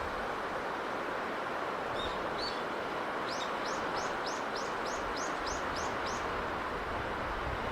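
Steady wash of sea breeze and waves. Over it a small bird chirps twice, then sings a quick trill of about ten repeated high notes in the middle.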